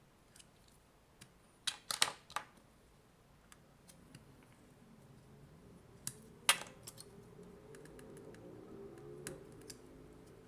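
Sharp clicks and snaps of tools working at the sealed plastic casing of a Nintendo Switch AC adapter as it is forced open. There is a cluster of clicks about two seconds in and two loud ones a little past the middle. A faint low hum comes in partway through.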